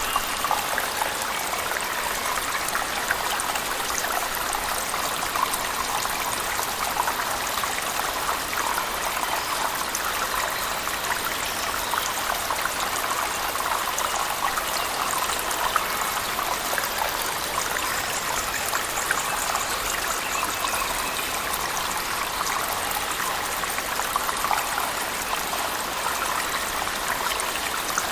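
Water falling and splashing steadily in a cave, mixed with heavy rain: a constant dense rush, with many small splashes and drips.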